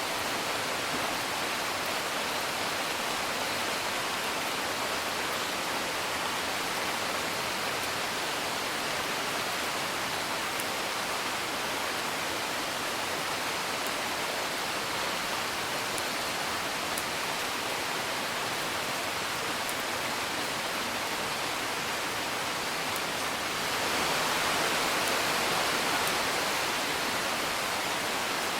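Steady rain falling, heard as an even hiss with faint scattered sharp ticks; it swells a little louder about 24 seconds in, then eases slightly.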